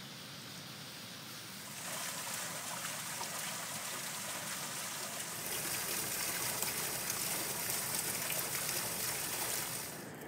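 Water gushing from a spring spout and splashing into a metal pan, a steady rush of falling water that starts about two seconds in, grows louder about halfway through, and cuts off near the end.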